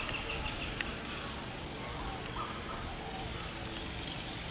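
Steady outdoor background noise with bird chirps: a rapid run of short chirps that stops just after the start, then a few faint single calls.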